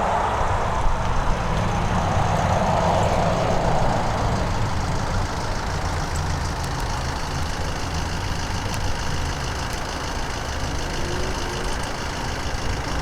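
A Boeing 737-800's CFM56-7B jet engines running steadily at low power: a low rumble with a faint high whine, the mid-range roar easing a little after the first few seconds.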